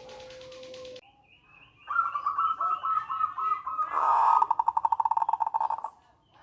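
Zebra dove (perkutut) calling: a run of quick repeated cooing notes from about two seconds in, then a louder, faster rattling series of notes (the 'nretek') for about two seconds, stopping shortly before the end.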